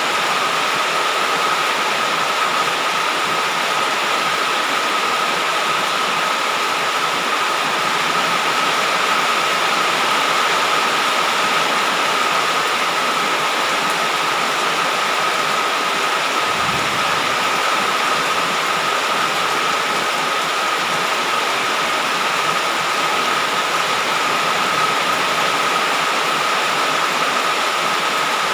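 Heavy rain falling steadily, a constant even hiss with a steady high tone running through it. A brief low rumble comes a little past halfway.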